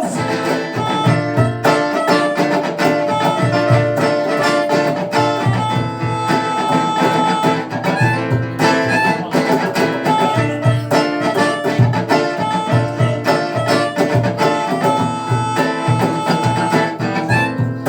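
Rock band playing an instrumental passage of a song live: guitar-led music over a steady low beat, with no singing.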